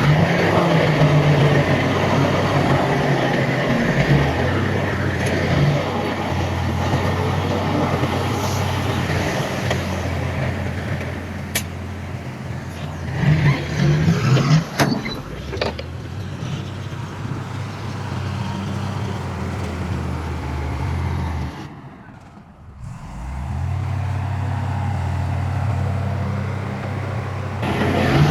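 Heavy diesel engines of earthmoving machinery running steadily at a working pitch, with a few sharp clanks about twelve and fifteen seconds in. The sound drops away briefly about twenty-two seconds in, then the engine comes back.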